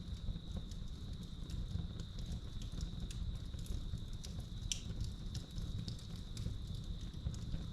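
Wood fire crackling in a fireplace, with scattered pops (a sharper one about two-thirds of the way through) over a low rumble. Crickets trill steadily at one high pitch throughout.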